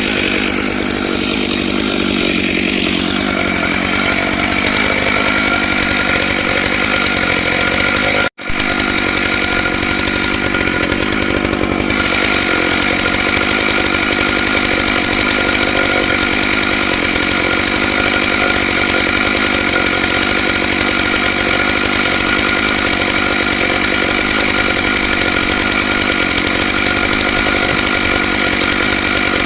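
Stihl MS661 91 cc two-stroke chainsaw running steadily at high revs on a chainsaw mill, ripping a pine log lengthwise with a ripping chain. The sound drops out for an instant about eight seconds in.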